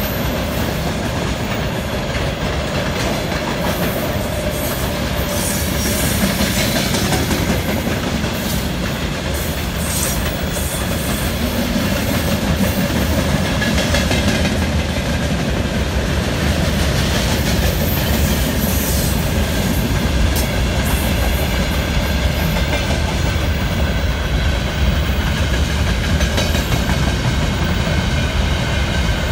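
Freight train wagons rolling past close by: a steady, loud rumble of steel wheels on rail, with clickety-clack as the wheels pass over the rail joints.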